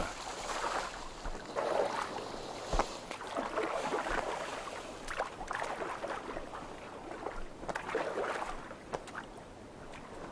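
Water splashing and dripping with the heavy wingbeats of an osprey struggling to lift a fish out of the water, in irregular swishes that fade near the end.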